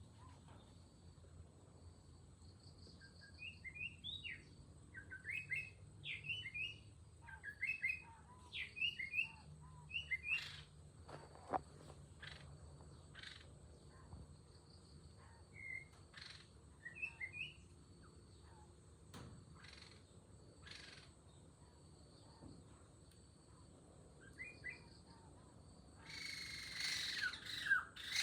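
A small bird chirping in short clusters of quick notes, over a steady high drone of insects, with a few sharp clicks in between. A louder, harsher bird call starts near the end.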